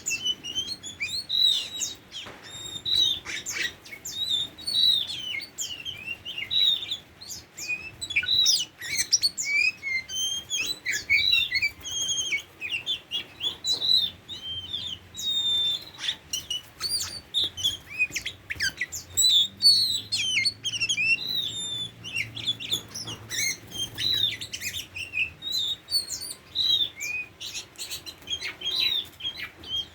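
Oriental magpie-robin singing: a continuous run of quick, varied chirps and whistled notes, some sliding up or down in pitch.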